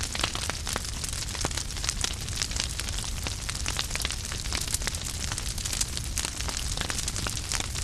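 Fire crackling steadily, with many quick pops and snaps over a low rumble of flame.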